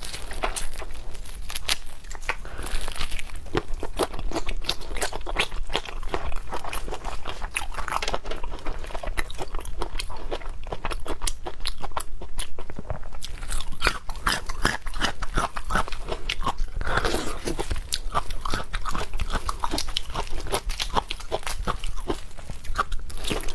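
A person chewing and biting seafood (shrimp and octopus): continuous wet chewing with many small crunches and smacks.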